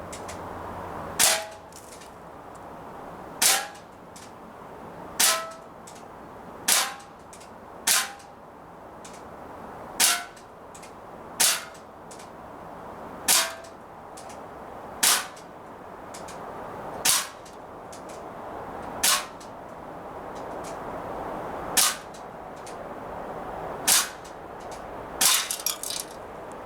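Umarex XBG CO2 BB pistol firing at a slow steady pace, about fourteen sharp cracks one to two and a half seconds apart. Several cracks are followed by a brief ringing tone, and a few small clicks follow the last shot.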